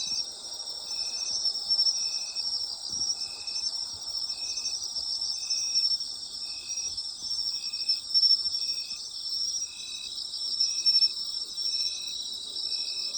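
Night chorus of autumn insects: a dense high trilling and a steady high tone, with one insect calling in short notes at a constant rhythm, a little more than once a second.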